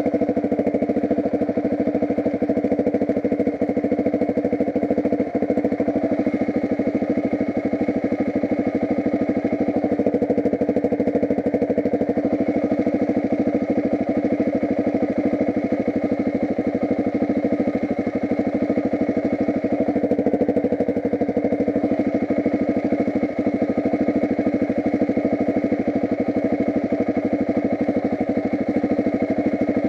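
Off-road motorcycle engine running steadily, its revs holding nearly constant.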